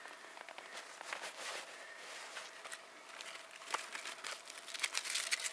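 Birch bark tinder crinkling and rustling as it is handled, with scattered small clicks.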